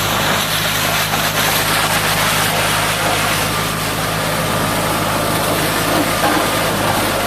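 A heavy engine idling steadily, with a strong even hiss of water spray over it, as heavy equipment is being washed down.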